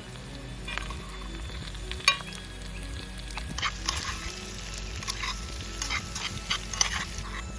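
Food sizzling and frying in a pan, with a sharp click about two seconds in and a denser run of crackles and pops from about halfway.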